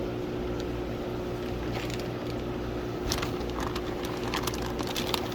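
Steady low machine hum with a few fixed tones, with scattered light clicks and taps over it from about two seconds in.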